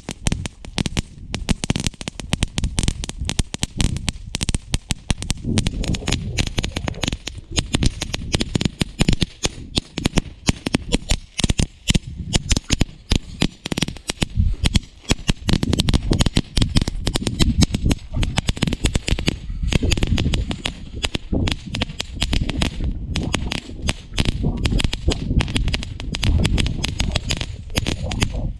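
Crackling firework fountain burning, a dense, continuous run of rapid sharp pops and crackles.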